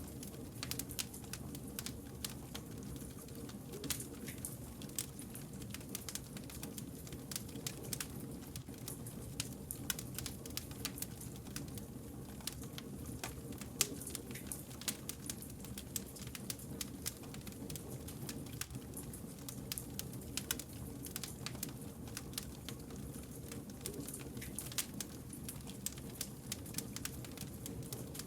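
Wood fire burning, with frequent sharp, irregular crackles and pops over a steady low rumble.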